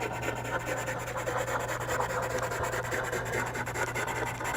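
Charcoal pencil scratching across textured Strathmore charcoal paper in quick, continuous small strokes.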